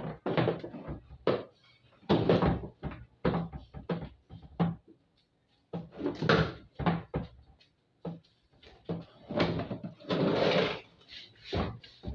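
Irregular knocks, clatters and scrapes of a washing machine's plastic and metal parts being handled and pried during disassembly, with a longer scrape near the end.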